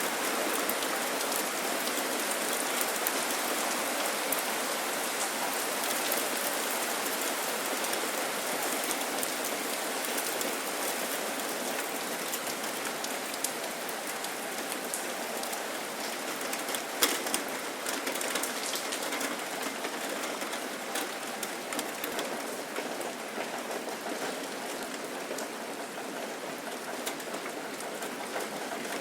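Steady rain falling, with individual drops ticking sharply close by. A brief cluster of louder drop ticks comes a little past halfway.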